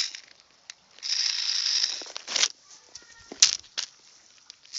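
Toy spider in its 'angry mode' giving a hissing rattle in bursts, the longest about a second in, with scattered sharp clicks and knocks between them.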